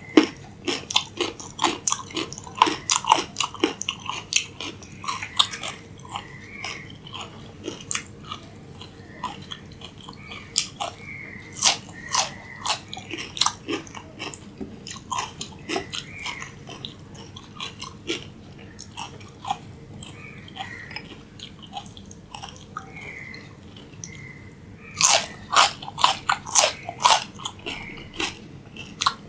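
A person biting and chewing raw carrot and cucumber sticks close to the microphone, the vegetables crunching crisply. Dense crunching for the first several seconds, slower and quieter chewing through the middle, then a fresh burst of loud crunching about 25 seconds in.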